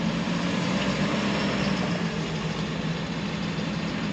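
Pickup truck engine running steadily at low revs while the truck creeps gently forward under power.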